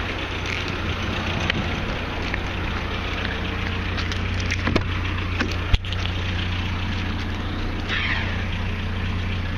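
Pickup truck engine idling with a low steady hum under a loud, steady crackling noise, broken by a few sharp clicks, the loudest a little before the six-second mark.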